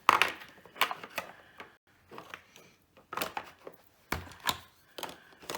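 Toy building blocks clicking and knocking as they are picked up and stacked, about eight irregular sharp clacks spread across the few seconds.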